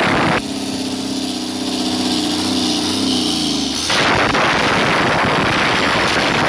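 Isuzu engine idling steadily for a few seconds, then revved for the last few seconds, with a much louder, rougher sound while revved.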